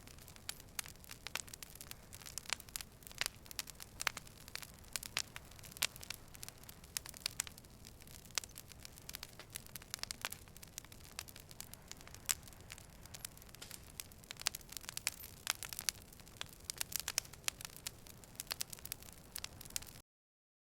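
Wood campfire crackling, with irregular sharp pops and snaps over a low hiss of burning. It stops abruptly near the end.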